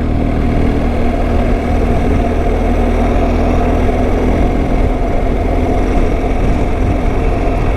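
Motorcycle engine running at a steady cruise while riding, heard with constant road and air noise.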